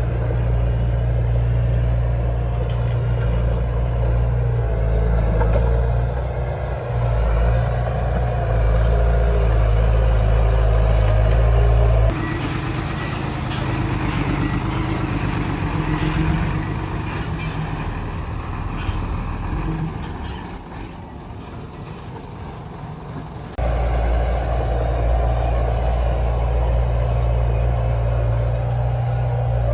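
Heavy diesel engine of earthmoving machinery running steadily, with the sound changing abruptly twice where the recording cuts.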